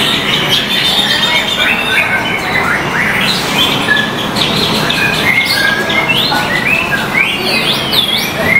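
White-rumped shamas (murai batu) singing, several birds at once: rapid, overlapping whistled phrases and sharp chirps, over a steady low background din.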